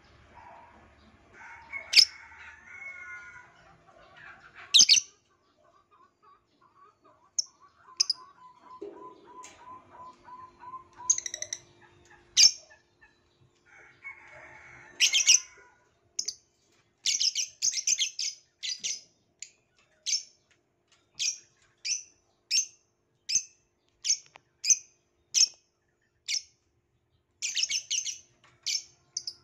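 Violet lovebird chirping: short, shrill chirps, scattered at first, then repeated steadily about one to two times a second from about halfway through.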